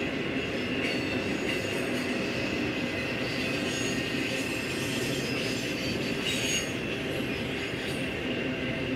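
Freight train's intermodal flatcars, loaded with trailers, rolling past: a steady rumble of steel wheels on rail, with a thin, high, steady wheel squeal over it.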